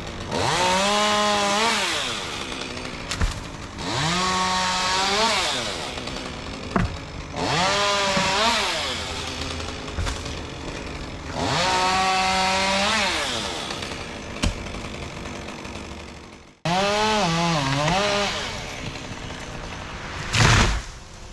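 Two-stroke chainsaw revving up to full speed for cuts, about five times, each time holding for a second or two and then dropping back to a lower idle. A loud knock comes near the end.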